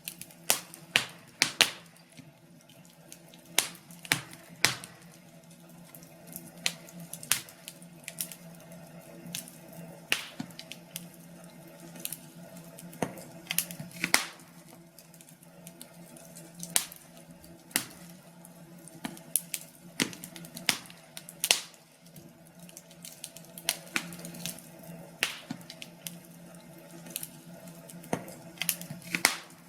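Wood fire crackling, with irregular sharp pops and snaps at uneven intervals over a faint steady hum.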